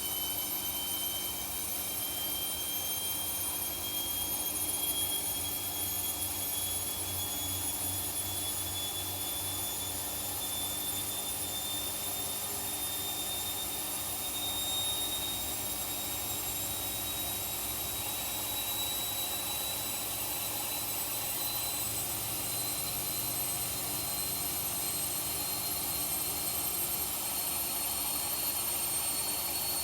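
Washing machine drum in a high-speed spin, its motor whine rising slowly in pitch as the drum gathers speed, over a steady rushing hum.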